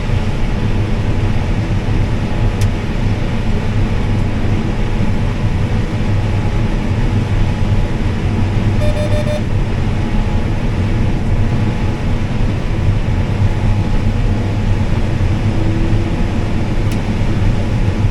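Combine harvester running steadily under load while harvesting corn, a loud constant drone. A short beep sounds about halfway through.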